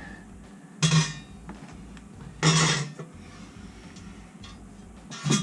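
Sheet-metal furnace access panel being handled as it comes off: three loud metallic clanks and rattles, about a second in, at about two and a half seconds, and near the end, over a low steady hum.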